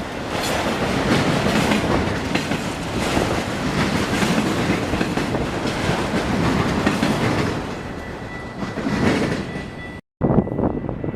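Train cars rolling past close by, wheels clacking over the rail joints. It cuts off abruptly near the end, where a different, quieter sound takes over.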